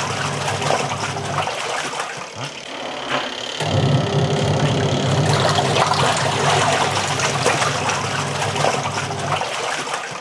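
Portable washing machine's impeller churning heavy blankets in water: water sloshing and swishing over a steady motor hum. The hum stops for about two seconds and starts again, as the wash pauses and reverses direction.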